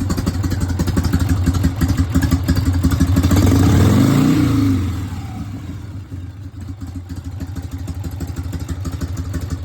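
1988 Harley-Davidson Softail's Evolution V-twin running at idle; about three seconds in the throttle is blipped, the revs rise and fall back within about two seconds, and it settles to a quieter idle.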